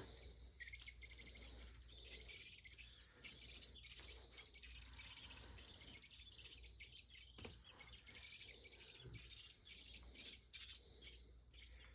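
Nestling robins begging for food, a rapid run of high, thin chirps repeated over and over in clusters.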